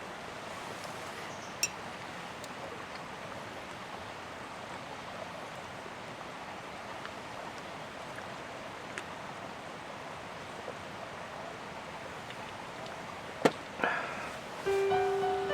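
Steady rain falling, an even hiss, with a few sharp clicks, the loudest near the end. Music begins just before the end.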